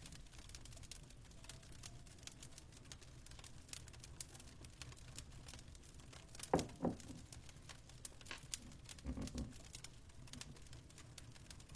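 Fireplace crackling: a steady run of small sharp pops and snaps over a low rumble. There are two louder, brief shifts, one about six and a half seconds in and another around nine seconds.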